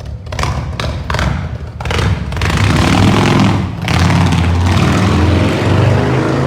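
Harley-Davidson V-twin motorcycle engine through a loud exhaust, giving a few short blips before opening up to a loud, continuous run about two seconds in. The sound drops briefly just before the four-second mark, then picks up again.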